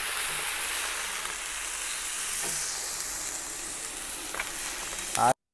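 Crab pieces sizzling steadily in hot oil in the cooking pot; the sound cuts off suddenly near the end.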